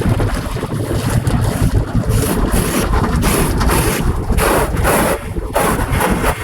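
Automatic car wash heard from inside the car: a loud, steady rumble of water and machinery against the car's body, with surges of hissing spray in the middle.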